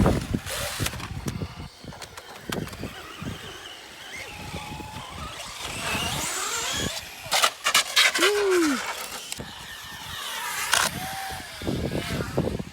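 Electric RC cars running on concrete, their motors whining up and down as they speed up and slow down. A quick clatter of hard knocks comes about seven seconds in, like cars landing or hitting something.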